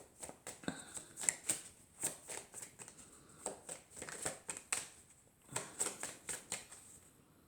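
Tarot cards being shuffled and handled: a run of short, irregular papery snaps and flicks, several a second.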